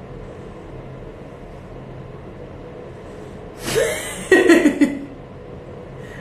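A short, loud burst of a person's voice without words, about a second and a half long and starting about three and a half seconds in: a rising sound and then a few quick pulses, over a steady low hum.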